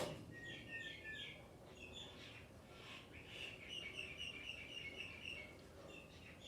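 Birds chirping: a few quick high chirps, then a rapid trill of repeated notes lasting about two seconds in the middle. A sharp click right at the start is the loudest moment.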